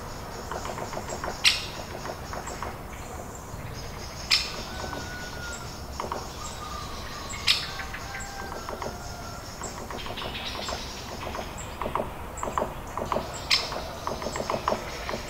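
Birds calling outdoors: a few short, sharp high notes a few seconds apart, with rapid runs of chirps and some soft whistles in between.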